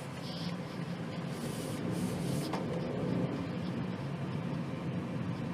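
Cabin noise of a BMW 218i Gran Coupe on the move: its turbocharged 1.5-litre three-cylinder engine running steadily under tyre and road noise, growing slightly louder about a second in.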